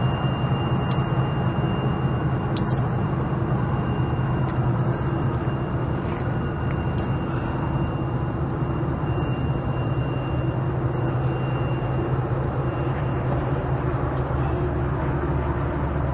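Double-stack intermodal freight train rolling past, a steady rumble of its wheels and well cars on the rails. A thin high squeal runs through most of it and stops about three-quarters of the way through, with a few scattered clicks.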